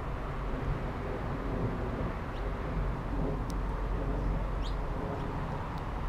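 A few short, high bird chirps, one of them rising, scattered through the second half over a steady low outdoor rumble.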